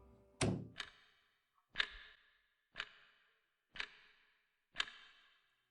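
Six sharp strikes, evenly spaced about a second apart, each ringing out briefly.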